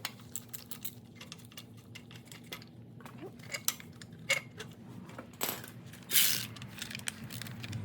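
Scattered light metallic clinks and clicks of hand tools working on a Ford 289 V8 as its water pump and alternator bracket are being unbolted, with a short hiss about six seconds in.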